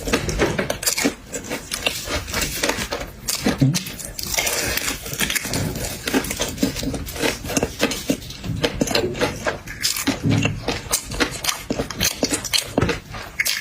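Close-up eating sounds from a seafood meal: a dense run of quick clicks, cracks and smacks as shellfish is handled, torn and chewed, with dishes and cutlery clinking.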